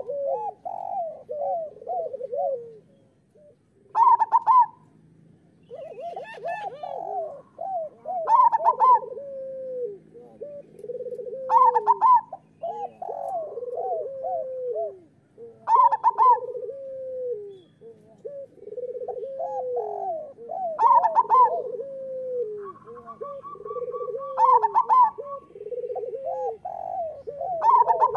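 Zebra dove (perkutut) cooing in repeated song phrases about every four seconds, each opening with a loud higher note followed by a run of lower, falling coos. A faint steady hum lies underneath.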